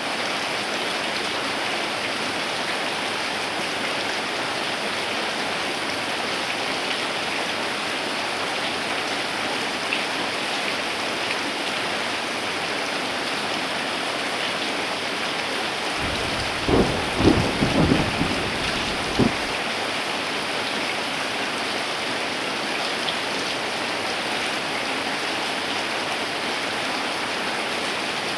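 Heavy rain falling steadily. A burst of thunder with several sharp cracks lasts about three seconds, a little past the middle.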